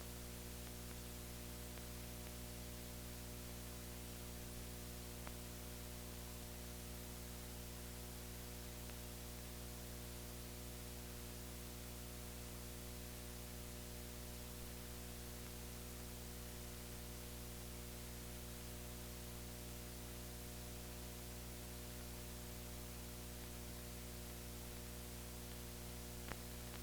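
Steady electrical hum with hiss and no programme sound: the noise floor of an unsounded stretch of old newsreel film. A few faint clicks stand out now and then.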